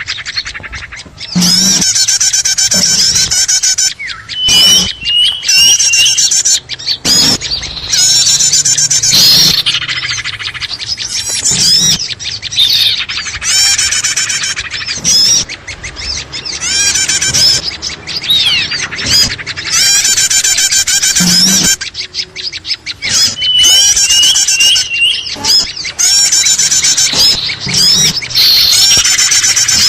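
Bird-lure recording of small songbirds in a dense, noisy chatter: rapid high trills and chirps overlapping in bursts of a few seconds, with brief breaks between them. It is played to call small birds in for trapping.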